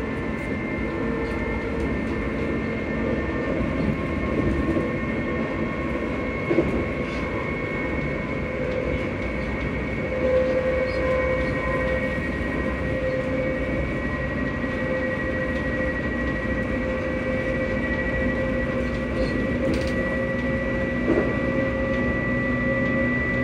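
Electric train's traction motors and VVVF inverter humming, several steady tones drifting slowly in pitch over the rumble of the train running on the rails, with an occasional light knock.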